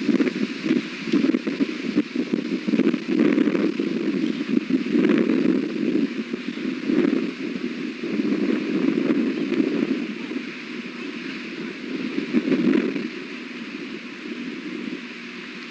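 Strong wind buffeting a nest camera's microphone, a rushing noise that rises and falls with the gusts.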